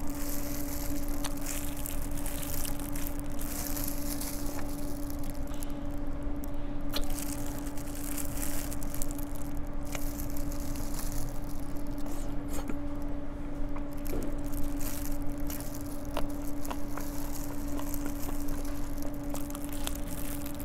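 Chewing and biting of sauce-coated Korean seasoned fried chicken (yangnyeom chicken), picked up close by a lapel microphone, with scattered short clicks from the mouth and bites. A steady hum runs underneath.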